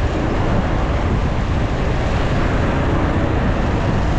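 Motorcycle riding at speed, heard on an action camera: a steady rush of wind buffeting the microphone with the engine and road noise running underneath.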